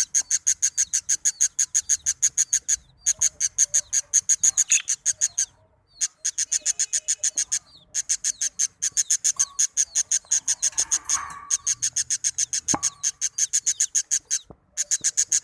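Nestling birds peeping in a fast, even run of high-pitched chirps, about seven a second, broken now and then by short pauses.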